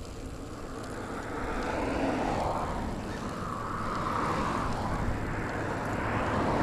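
Motor vehicle on the road, its engine and tyre noise a steady rush that grows louder over several seconds as it approaches.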